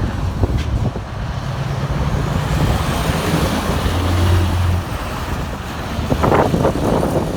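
Scania R560 V8 diesel truck driving by, its deep engine note running steadily with road noise that swells and fades as it passes.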